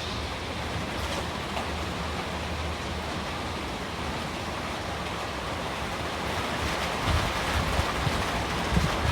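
Steady rushing noise of wind and rain, with low gusts buffeting the microphone from about seven seconds in.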